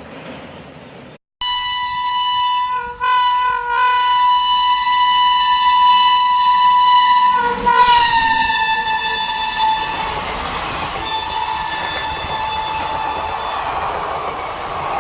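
WAP-7 electric locomotive sounding its air horn while running through at speed. The horn cuts briefly twice, then holds a long blast whose pitch drops as the locomotive passes, followed by a second, weaker blast over the roar of the passing train.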